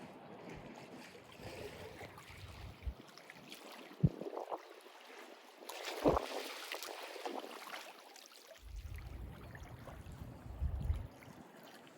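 Mediterranean sea water washing and lapping, swelling twice, with two sharp thuds about four and six seconds in and a low rumble in the second half.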